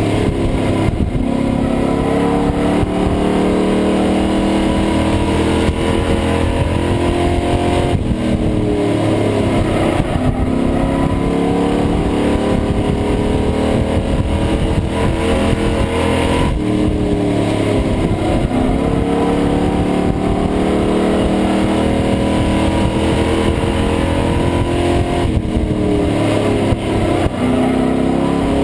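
Pro Truck race engine heard from inside the cab on an in-car camera, running hard at speed. About every eight seconds the revs drop off and climb back, four times, as the truck lifts for a corner and accelerates out.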